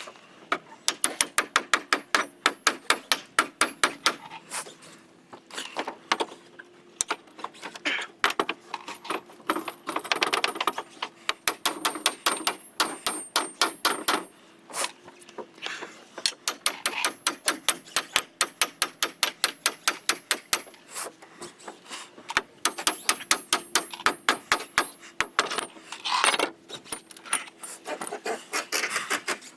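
Cordless power driver backing screws out of old dock boards in several bursts, each a rapid run of clicks over a faint motor whine.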